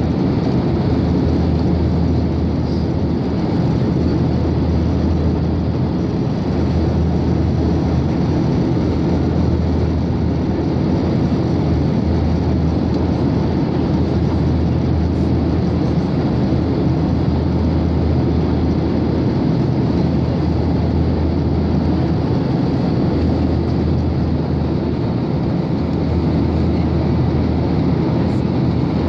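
Steady cabin noise of a Boeing 737-800 in flight, with its CFM56-7B engines and the airflow making an even, unbroken low rumble heard from inside the passenger cabin.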